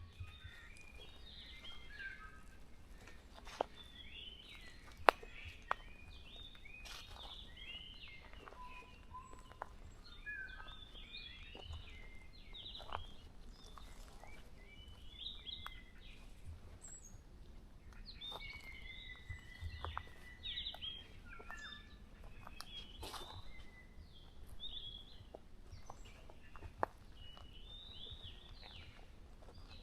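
Several songbirds chirping and singing over one another in a forest morning chorus, with short warbled phrases throughout and a longer whistled phrase around two-thirds of the way through. A few sharp clicks stand out, the loudest about five seconds in.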